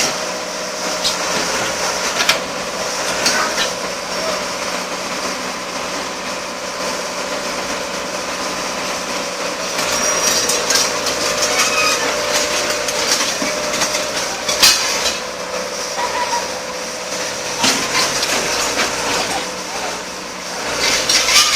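Backhoe running as it drives on metal wheels over a concrete road, with a steady engine drone and scattered clanks and knocks of metal on concrete.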